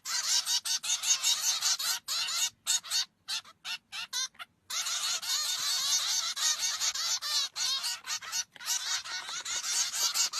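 A flock of birds calling at once in a dense, high-pitched chatter. The sound drops out abruptly several times between about two and four and a half seconds in, then resumes.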